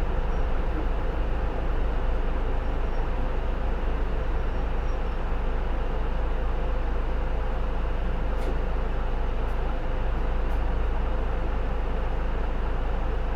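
Cabin sound of a J-Bus PKG-LV234L2 (Isuzu Erga) city bus under way: its diesel engine runs at a steady pitch with a constant whine over low road rumble.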